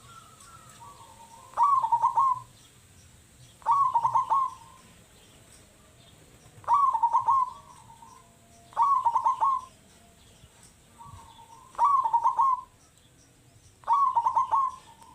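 Zebra dove (perkutut) singing its cooing song over and over: six short phrases of quick, stuttering coos, each under a second long, about two to three seconds apart.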